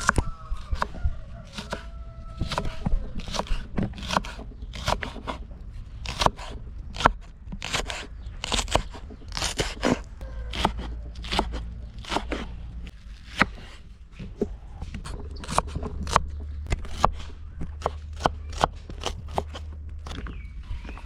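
Repeated crunching cuts, about two or three a second and unevenly spaced, over a low steady rumble.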